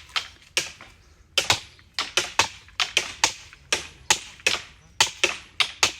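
Date palm trunk being skinned with a razor-sharp hand blade: a quick, uneven run of sharp knocks, about three a second, as the blade chops at the trunk's fibrous bark.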